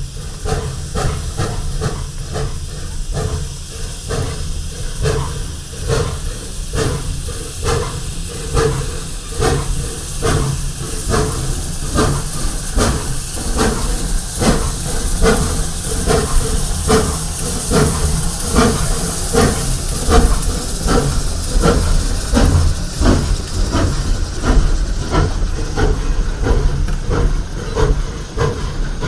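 Leviathan #63, a replica 4-4-0 steam locomotive, working with a steady rhythm of exhaust beats, about two a second and getting a little faster, over a continuous hiss of steam.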